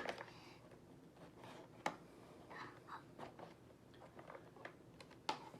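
Faint clicks and scrapes of a toy key being worked in a toy's lock, with one sharper click about two seconds in.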